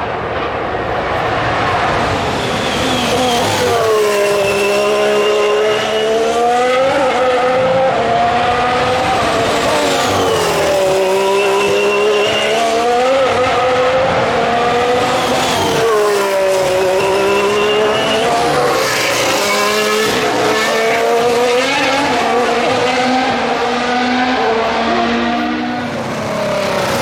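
2019 Formula 1 cars' 1.6-litre turbocharged V6 hybrid engines passing one after another. Each drops in pitch through downshifts under braking into a chicane, then rises again as it accelerates out.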